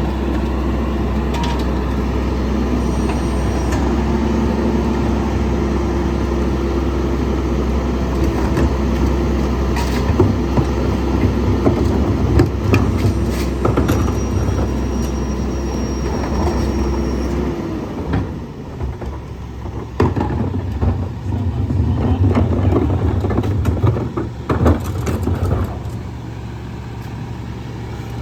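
Garbage truck engine running with a steady whine from its hydraulics, while repeated knocks, cracks and crunches come from trash being handled. About 17 seconds in, the whine stops and the engine note changes, with more knocks and crunches after it.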